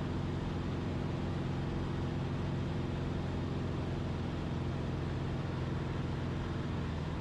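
Cessna 172RG's four-cylinder Lycoming O-360 engine and propeller droning steadily under power, with the pitch shifting slightly near the end.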